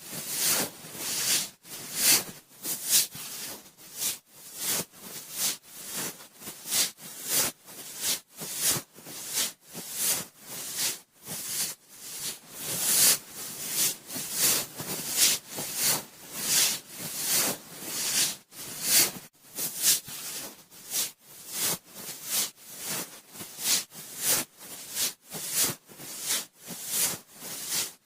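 Cotton swab swirling and rubbing close inside the ear of a binaural microphone: a run of hissy rubbing strokes, about one to two a second, each swelling and fading.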